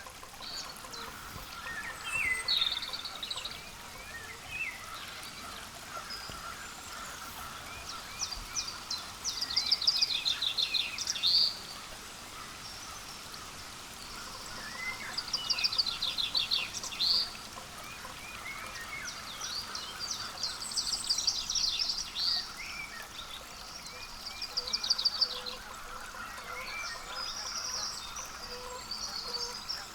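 Songbirds singing, with a high, rapid trill of fast repeated notes coming back every few seconds and short chirps between.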